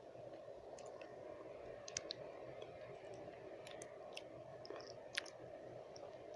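Close-miked wet mouth sounds: scattered moist clicks and smacks of lips and tongue, the louder ones about two and five seconds in, over a steady low hiss of white noise.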